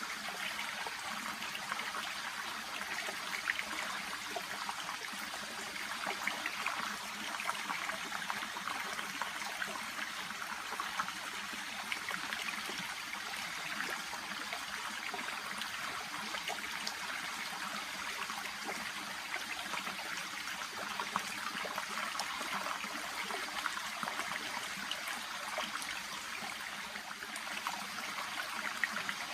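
A small shallow brook babbling and trickling steadily, with many small splashes and drips over a constant rush of water.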